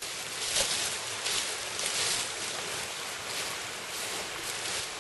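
Steady rushing hiss, like running water, with repeated brief louder swells.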